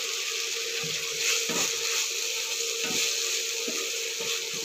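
Blended chilli spice paste, with freshly added dried shrimp, sizzling in a frying pan while a wooden spatula stirs it. A few soft knocks of the spatula against the pan come through, over a steady faint hum.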